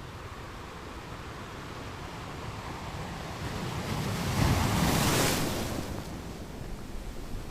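Ocean surf: a steady wash of waves, with one wave building from about three seconds in, breaking loudest near the middle, and washing back down.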